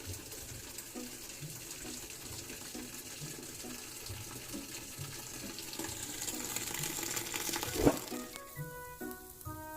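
Water pouring and splashing as a bath broom (venik) is steamed in hot water, with a single sharp knock about eight seconds in. Background music comes in near the end.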